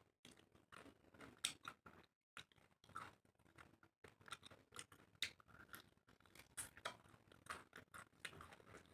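Faint mouth sounds of a person chewing rice and curry eaten by hand, with fingers mixing rice on a plate: a steady run of short, soft clicks and smacks.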